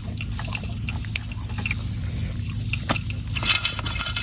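Chewing and crunching of food close to a clip-on microphone, a run of short crisp crunches and small clicks that bunch together about three and a half seconds in, over a steady low hum.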